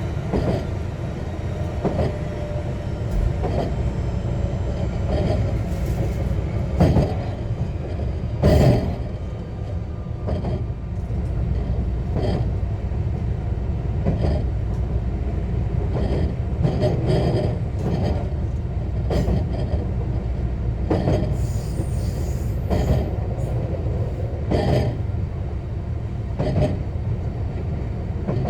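JR West 125 series electric railcar running along the line, heard from aboard: a steady rumble of wheels on rail, with sharp rail-joint clicks every second or two.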